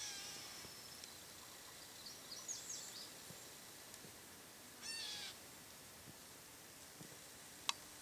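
Faint wild bird calls: a run of high chirps, then a single harsh call about five seconds in. A sharp click comes near the end.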